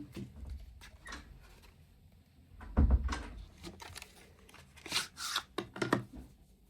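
Household handling sounds: scattered knocks and clatter, with a heavy thump about three seconds in and a couple of short scraping or rustling bursts about five seconds in, like a drawer or cupboard being opened and closed.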